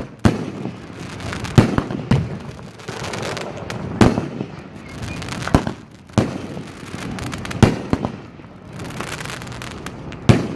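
Consumer aerial fireworks going off: a string of sharp, loud bursts, roughly one every second or two and unevenly spaced, with a steady hiss and rumble of noise between them.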